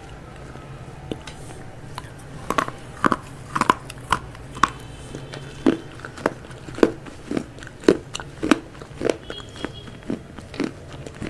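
Close-up crunchy bites and chewing, a series of sharp crunches starting about two seconds in and coming roughly once or twice a second.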